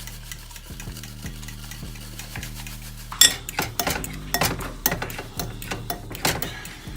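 A utensil stirring potatoes, butter and hot water in a pot, scraping and clinking against the pot; the stirring turns quick and busy about three seconds in.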